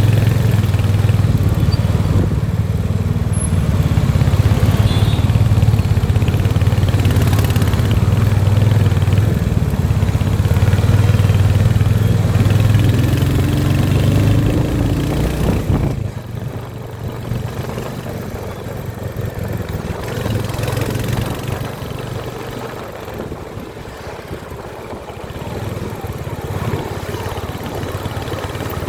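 Royal Enfield Hunter 350's single-cylinder engine running with a steady low exhaust note, which drops off markedly about halfway through and stays quieter after that.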